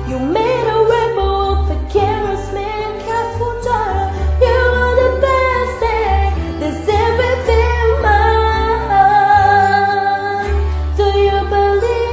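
Pop song sung with instrumental accompaniment: a voice holding and sliding between notes over a steady bass line.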